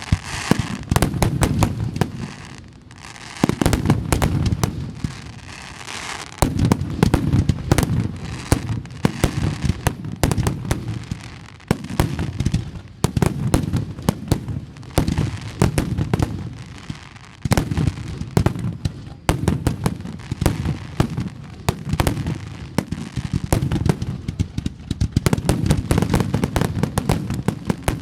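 Fireworks display going off in rapid succession: a dense barrage of booming shell bursts and sharp crackling reports, coming in clustered waves with short lulls between.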